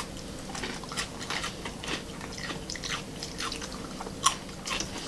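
Close-up chewing and biting of a stuffed sourdough bread bowl: a string of short, irregular crunches and wet mouth clicks over a faint steady hum.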